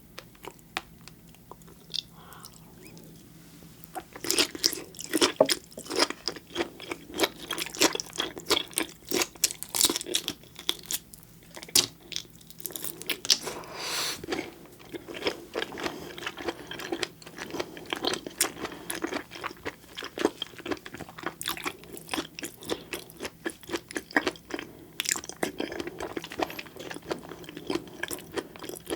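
Close-miked eating sounds of seafood being chewed: wet chewing with dense crunches and small crackling pops. The first few seconds are quiet with only scattered small clicks, and the chewing turns loud and busy from about four seconds in.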